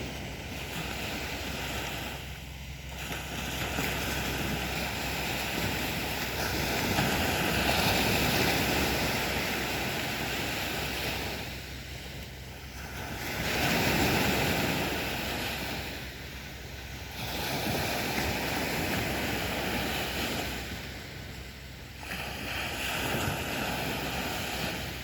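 Sea waves breaking and washing up a beach. The surf swells and falls away about four times, every four to five seconds.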